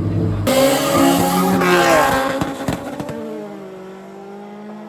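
Drag racing cars launching hard, engines revving high with tyre squeal, then fading away as they run down the strip.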